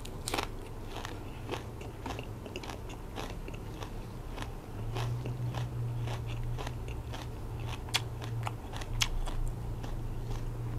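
Close-miked chewing and crunching of a mouthful of spicy Isan silkworm-pupae and green-mango salad, with many small crisp clicks.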